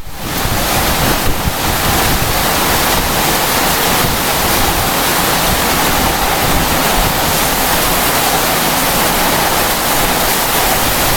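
Summer thunderstorm: heavy rain and strong wind making a steady, dense rush of noise, with wind buffeting the microphone. The hail has just stopped and the wind is picking up.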